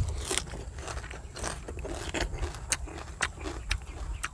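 A person chewing crispy deep-fried silver carp, with a short, sharp crunch about every half second as the brittle small bones and crust break.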